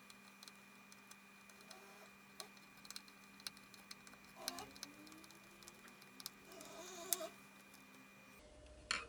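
Faint scattered clicks and light taps of hand work on a wooden base as a screw is set into it, with a louder scrape and knock about seven seconds in, over a faint steady electrical hum.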